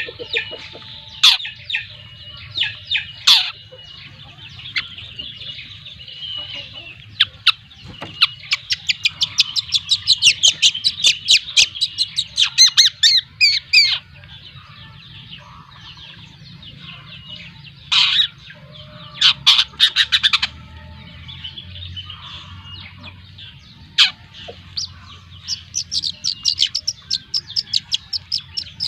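Young long-tailed shrike, about two months old, calling: single harsh, scratchy calls and fast runs of sharp chattering notes, several a second. A faint low steady hum runs underneath.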